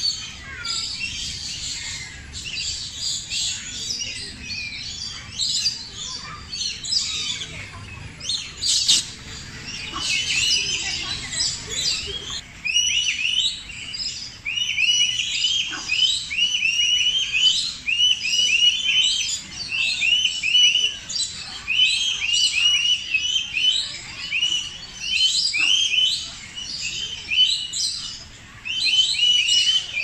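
Dense chorus of many birds chirping and calling at once. About twelve seconds in, a run of short, repeated call notes joins the chatter and carries on, several to a second.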